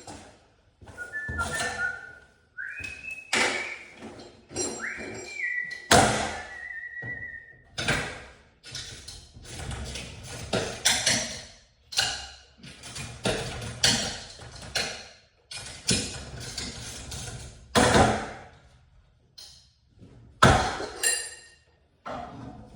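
Repeated knocks, clanks and thunks of hardware and tools being handled during garage door work. A few held high tones that step in pitch sound in the first seven seconds.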